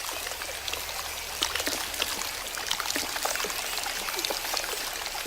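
Water running and trickling steadily, dotted with many small splashes and drips.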